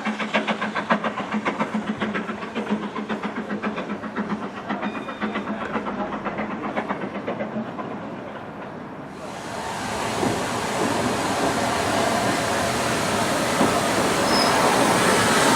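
Steam locomotive exhaust beats at about four to five a second, slowly fading away. About nine seconds in, this gives way abruptly to a steady rushing noise that grows louder.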